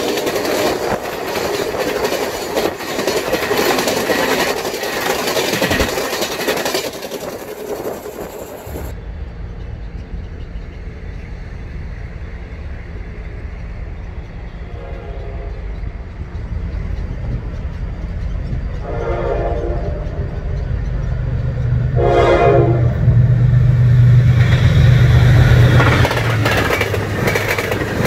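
Passenger train of Russian-built coaches passing close by, the wheels clattering over the rail joints. Then an approaching train's steady low engine rumble grows louder, its horn sounds three short times, the last blast loudest, and its coaches clatter past near the end.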